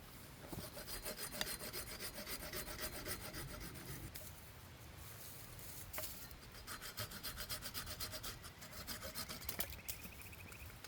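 Hand saw cutting through wood in two bouts of rhythmic rasping strokes with a short pause between them, and a sharp click in the pause.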